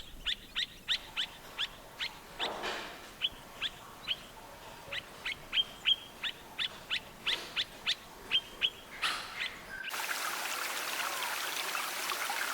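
A bird calling over and over in short, sharp chirps that slide down in pitch, about three a second. About ten seconds in this gives way to a steady rush of running water.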